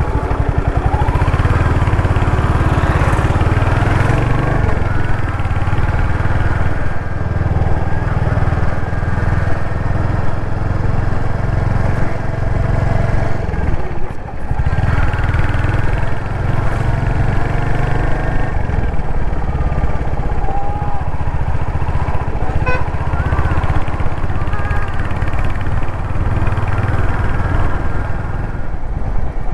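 Royal Enfield Hunter 350's 350cc single-cylinder engine running steadily while the motorcycle is ridden, with a brief dip in the sound about halfway through.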